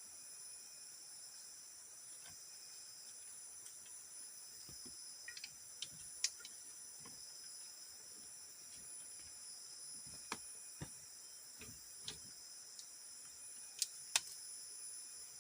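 Steady, high-pitched chorus of night insects, several overlapping steady tones, with a few sharp clicks scattered through it.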